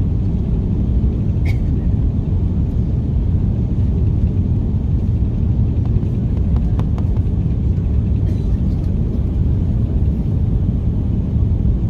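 Steady low rumble of engine and airflow noise inside the cabin of an Airbus A330-300, whose engines are Rolls-Royce Trent 700s. A few faint clicks are heard over it.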